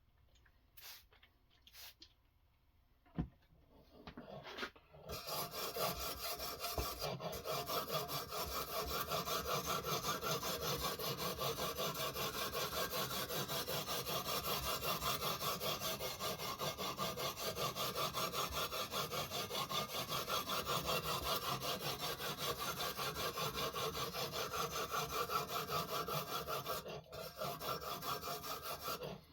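A few faint clicks and one sharp click about three seconds in. Then, from about five seconds in until just before the end, a sharpening stone of a guided knife sharpener rubs continuously along a knife blade's edge in quick back-and-forth strokes, a steady gritty scraping.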